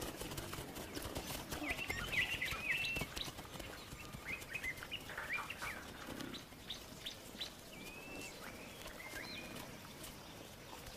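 Small birds chirping in many short calls that rise and fall in pitch, busiest in the first several seconds and thinning toward the end.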